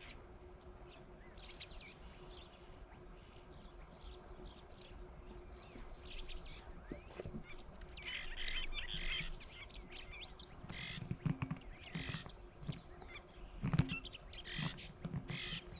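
Several small birds chirping and calling over one another, busiest from about eight seconds in, over a faint steady low hum, with a few low knocks near the end.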